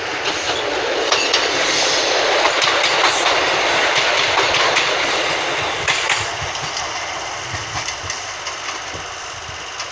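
Class 156 Sprinter diesel multiple unit pulling out of the platform, its engine and wheel noise swelling and then slowly fading as it moves away, with wheels clicking over rail joints.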